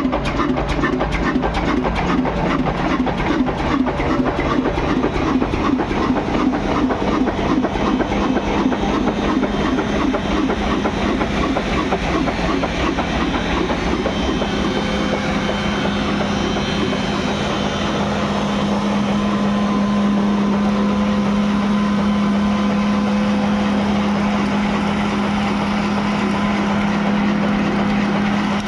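Old 20 HP diesel engine running, its firing strokes coming as a fast, regular beat. About halfway through, the beat smooths into a steady, even hum.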